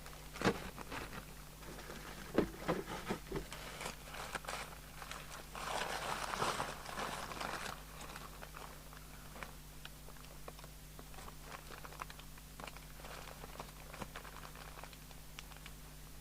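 Small parts being handled and rummaged through on a workbench: scattered clicks and taps, with a rustling like a packet or bag being sorted through about six seconds in, over a steady low hum.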